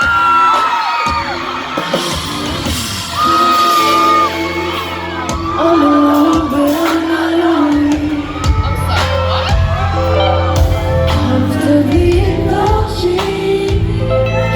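Live R&B song performed in a concert hall: a woman singing a slow melody over the band, with the bass coming in about eight seconds in. Audience whoops and yells sound over the music.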